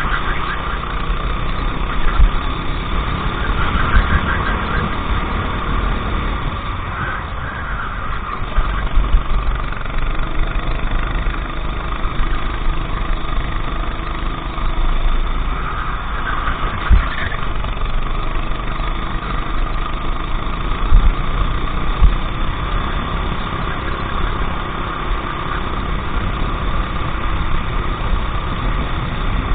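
Racing kart engine running hard through a lap, its note rising and falling with the throttle through the corners. A few sharp knocks come about two-thirds of the way through.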